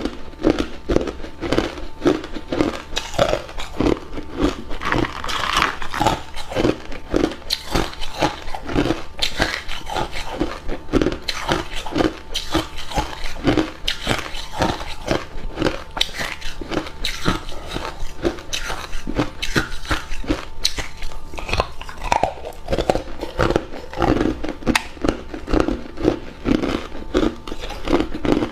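A person biting and chewing hard ice cubes: a continuous run of sharp, crisp crunches, several each second.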